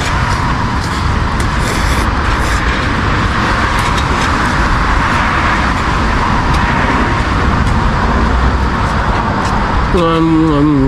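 Steady road traffic noise from passing vehicles: a continuous tyre hiss over a low engine rumble. Near the end a wavering pitched sound comes in.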